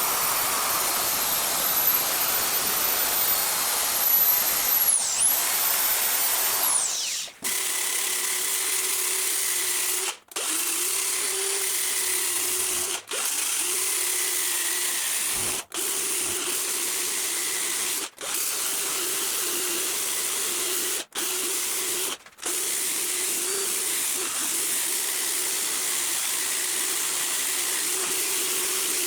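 Electric power tool running steadily, with a high whine that wavers and falls away about seven seconds in. After that the tool runs on with a steady hum, cut into short pieces with brief gaps every two to three seconds.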